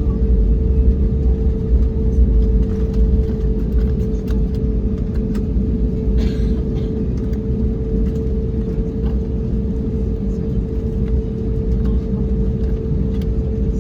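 Airbus A321neo cabin noise with the engines running: a steady low rumble with a constant hum held through it.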